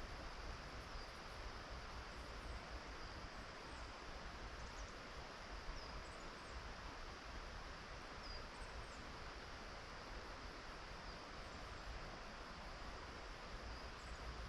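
Steady outdoor ambience, an even hiss with a low rumble underneath, with faint high bird chirps repeated every second or so.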